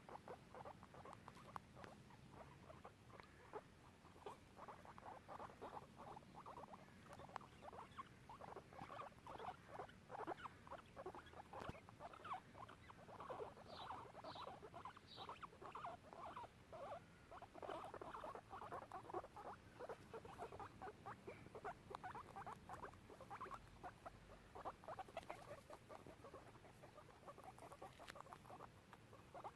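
Guinea pigs making a continuous run of short, faint squeaks, a few higher-pitched ones about halfway through.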